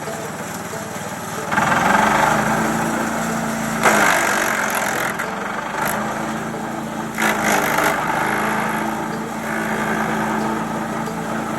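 DR Premier 300 wood chipper shredder running with its engine steady while branches are fed into it. The branches are chipped in loud crunching spells that start about a second and a half, four and seven seconds in.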